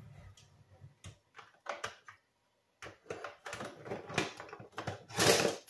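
Kitchen handling noise: a series of clicks and knocks of cookware and utensils being moved about, sparse at first and then more frequent, with a louder, longer knock near the end.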